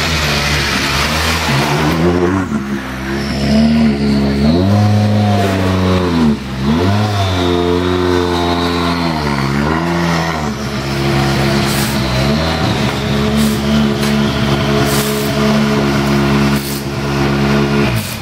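World Rally Car's 1.6-litre turbocharged four-cylinder engine at high revs, dipping sharply and climbing again twice, then held steady. A few sharp cracks come through in the second half, and the sound cuts off abruptly at the end.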